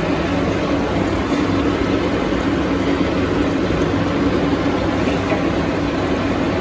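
Chitol fish pieces frying in hot oil in a frying pan, a steady sizzle with a constant low hum running underneath.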